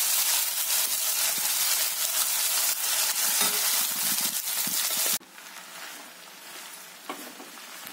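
Oil tempering sizzling in a kadai with onions, green chillies and peanuts, stirred with a steel spoon. About five seconds in, the loud sizzle cuts off abruptly to a much quieter hiss with a few spoon clicks as the rice is stirred through the tempering.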